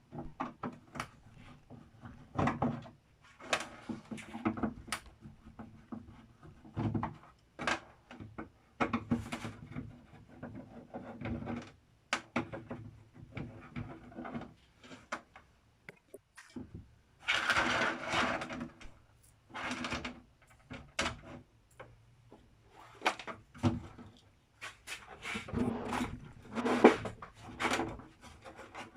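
Irregular clicks, knocks and short scrapes of an LCD TV's plastic cabinet and tools being handled as the set is readied for opening, with louder clusters of clatter about two thirds of the way through and near the end.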